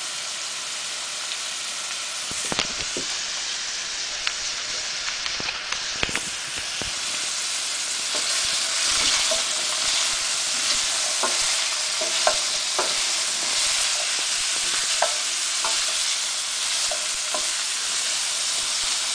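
Mixed vegetables stir-frying in a stainless steel pan: a steady sizzle, stirred with a wooden spoon that knocks against the pan now and then. The sizzle grows louder about halfway through.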